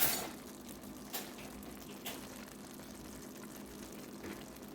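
Pot of seasoned rice simmering, a soft steady bubbling hiss, with a sharp click at the very start and a few faint ticks.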